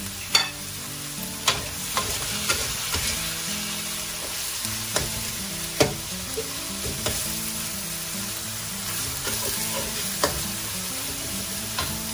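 Chicken, shallots and kaffir lime leaves sizzling in a wok as they are stir-fried, with a metal spatula scraping and clinking sharply against the wok at irregular moments.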